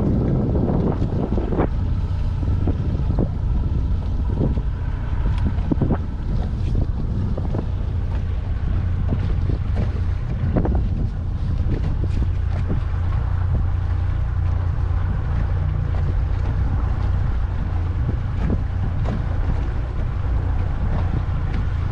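Strong wind buffeting the microphone aboard a small fishing boat: a steady low rumble, with scattered sharp knocks throughout.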